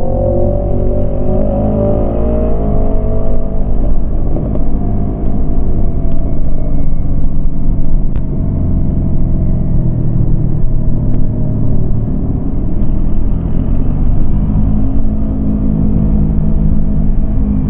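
Yamaha MT-25 motorcycle's parallel-twin engine running on the move. Its note falls over the first three seconds or so as the revs drop, then holds at a steady drone.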